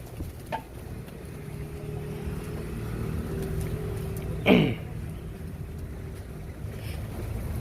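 A motor running steadily with a low hum, and one loud short call about four and a half seconds in that slides sharply downward in pitch.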